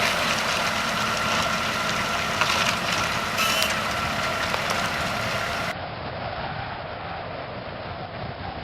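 An engine running steadily with a constant whine for about six seconds, then a cut to a quieter rushing of wind on the microphone.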